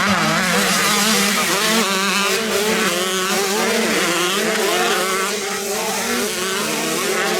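Several 125cc two-stroke motocross bikes racing, their engines revving up and down in overlapping, wavering pitches.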